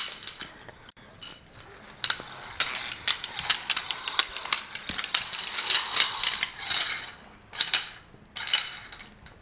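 Plastic toy monster truck rattling and clicking rapidly as it is rolled and played with, in spells that break up near the end.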